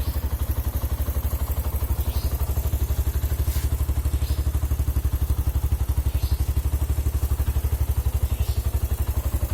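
Suzuki Thunder motorcycle's single-cylinder four-stroke engine idling steadily through a hollowed-out stock muffler. It makes a deep, even exhaust beat of about a dozen pulses a second.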